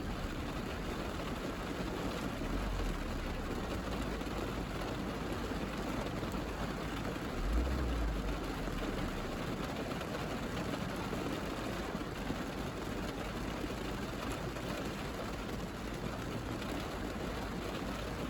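Rain pattering steadily on a car's roof and windows, heard from inside the cabin. A low rumble swells briefly about three seconds in and again about eight seconds in.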